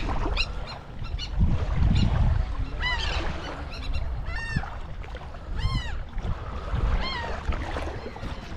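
Birds calling: several separate calls, each rising then falling in pitch, about four in all, with fainter short calls near the start, over a steady low rumble.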